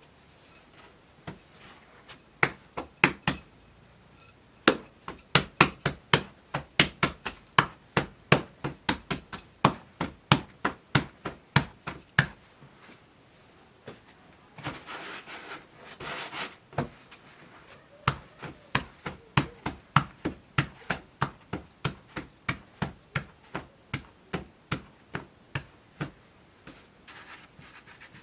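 Repeated sharp knocks, about two or three a second, in a long steady run. They stop about halfway through for a short rush of noise, then start again and die away near the end.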